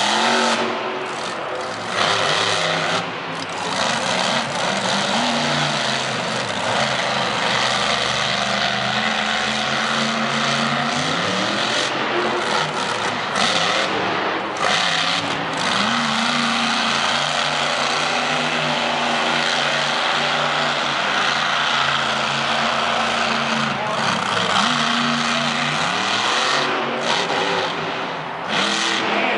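Monster truck's supercharged V8 running hard through a freestyle run, revving up sharply several times and easing off between.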